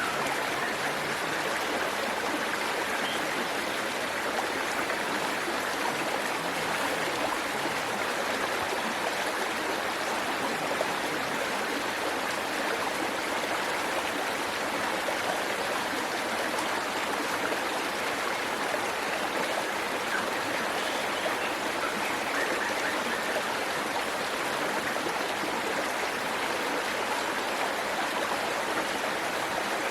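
Waterfall and its stream rushing steadily, an even splashing of falling and flowing water.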